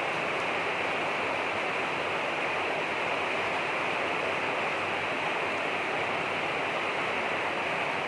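Rain falling steadily, an even hiss with no single sounds standing out.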